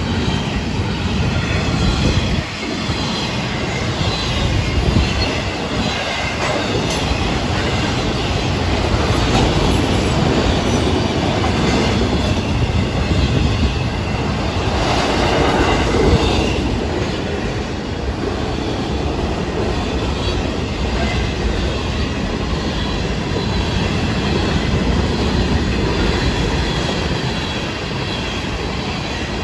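Florida East Coast Railway freight train of intermodal cars, autoracks and freight cars rolling past: a steady rumble and clatter of wheels on the rails, with a faint high squeal from the wheels.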